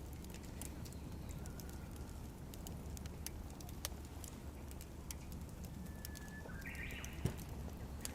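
Wood campfire crackling with irregular sharp pops, one louder pop about seven seconds in. A bird calls briefly about six seconds in.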